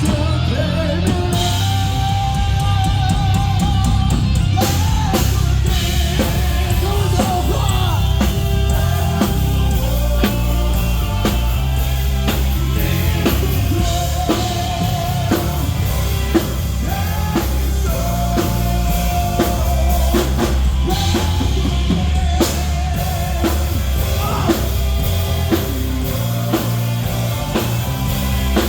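A rock band playing live at full volume: a pounding drum kit with a heavy bass drum under electric guitars and bass, with held melodic lines over the top.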